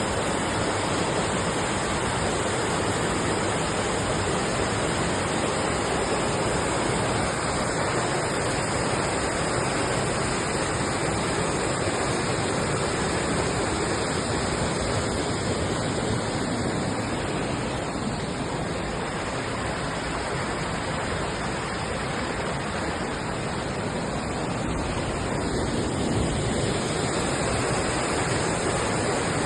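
Creek waterfall: falling water rushing steadily.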